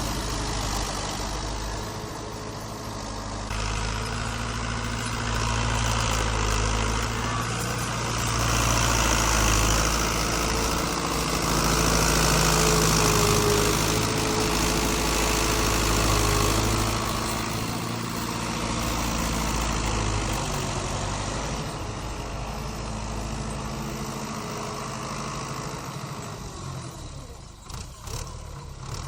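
Fiat 640 tractor's four-cylinder diesel engine running steadily. It grows louder a few seconds in, holds for about ten seconds, then eases off and is quieter near the end.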